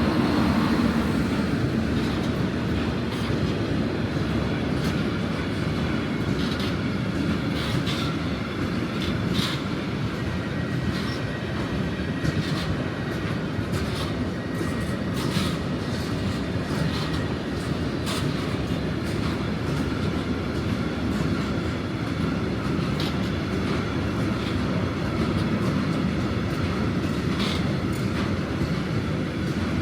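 A long freight train of car-carrier wagons rolling past. It gives a steady rumble, with wheel clicks over the rail joints coming irregularly every second or two.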